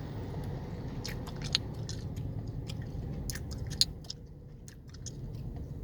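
Gum chewing close to the microphone: irregular wet smacks and sharp clicks, starting about a second in, the two loudest near the middle and shortly before a brief lull. A steady low rumble of the idling car's cabin lies under it.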